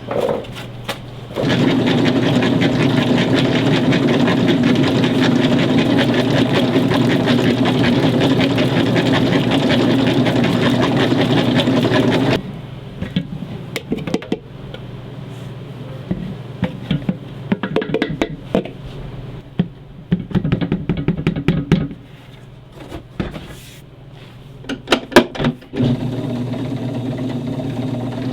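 A motor-driven machine runs with a steady whir for about ten seconds, then stops abruptly. After it stops there are scattered clicks and knocks.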